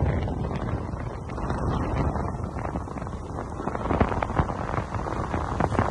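Wind buffeting the microphone: an uneven low rumble with scattered crackles that swells and dips.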